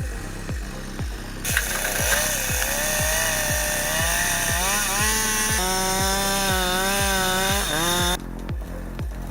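Two-stroke chainsaw running and cutting, its engine pitch wavering and dipping under load before it stops about a second before the end. Background music with a steady beat plays under it throughout.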